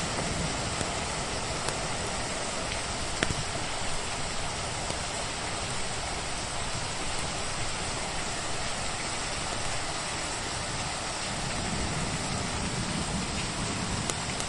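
Steady rain falling, with a few sharp pops of a crackling wood fire, the loudest about three seconds in.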